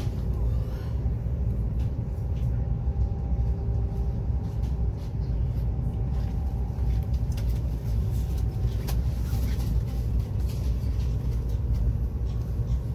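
Cabin noise of a Chinese high-speed bullet train running at speed: a steady low rumble, with a faint whine that fades out about halfway through.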